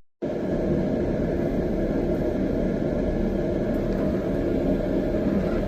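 Excavator engine running steadily, heard from inside the cab. It starts right after a brief cut-out.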